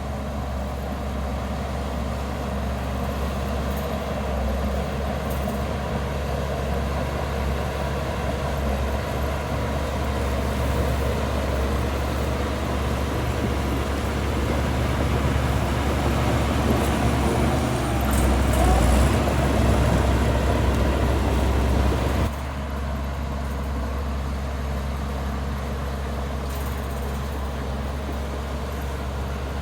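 Heavy diesel earthmoving machinery running, growing louder to a peak in the second half, then dropping off suddenly about two-thirds of the way through.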